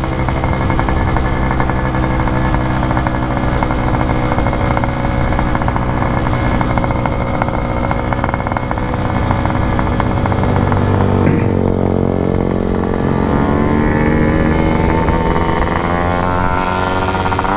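Yamaha RX-King 135cc single-cylinder two-stroke engine running on the move, holding a steady note for about eleven seconds. Then the pitch dips briefly and climbs steadily as the bike accelerates.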